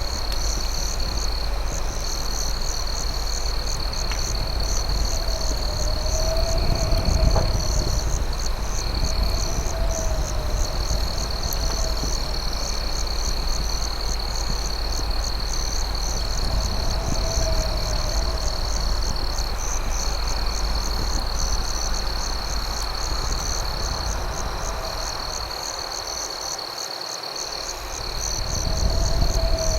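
Night insect chorus: crickets trilling steadily, with a faster pulsing chirp above, and a lower call repeating every two to three seconds over a constant low rumble.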